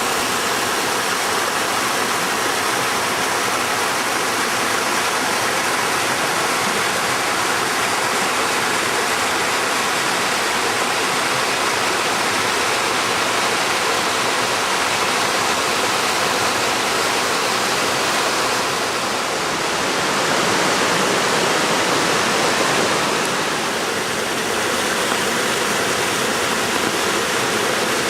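Waterfall rushing loud and steady, a dense even roar of falling water.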